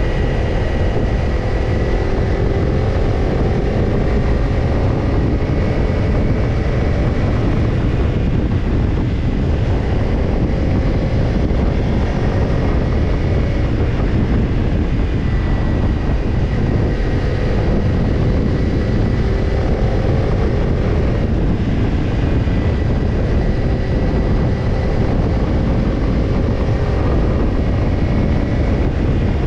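Kawasaki Ninja 250 parallel-twin engine through a BEET Nassert Evolution Type II titanium slip-on muffler, cruising at a fairly steady speed, its pitch rising and falling gently. Heavy wind rush on the microphone.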